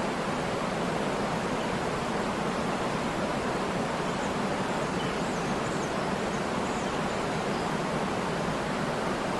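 Waterfall: a steady rush of falling water that stays even throughout.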